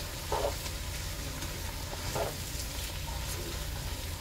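Cabbage frying in grease in a metal pot, sizzling steadily, while a spatula stirs and scrapes through it, with two louder strokes about half a second in and just after two seconds.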